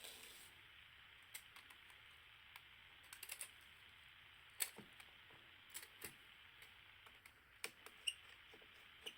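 Faint, scattered small clicks and ticks from handling a digital camera's internal parts and small tools during disassembly, with the sharpest click about halfway through, over a low steady hiss.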